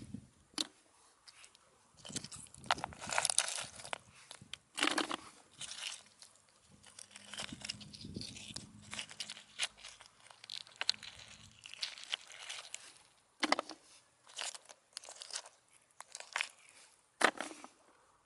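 Irregular crunching and rustling: a string of short scrapes and clicks, a few of them louder.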